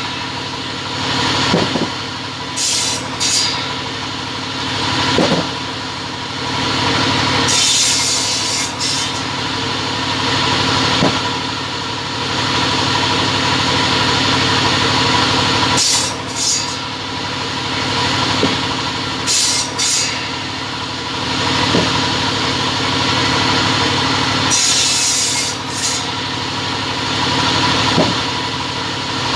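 Double-head cutting saw running with a steady hum, with short bursts of cutting noise, the longest about eight seconds in and again near the end.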